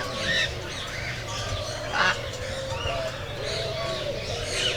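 Many birds calling at once in an aviary: a busy mix of chirps and short calls, with a louder call about two seconds in.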